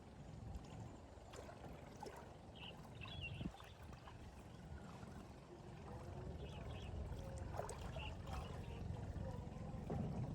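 Faint outdoor ambience by a river: a steady low rumble with light water sounds and faint distant voices.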